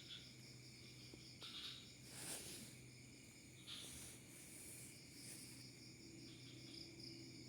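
Faint chorus of crickets and other insects, a steady layered high-pitched trilling, with a low hum beneath and a few brief soft rustles.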